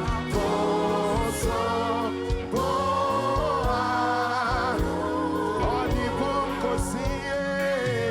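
Gospel worship singing: voices sing together over a band, with held, wavering notes over sustained chords and a steady beat.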